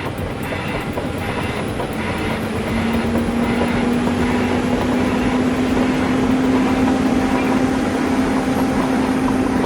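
Heavy vehicle running, with a steady drone that comes in about three seconds in and rises slightly in pitch as the sound grows louder.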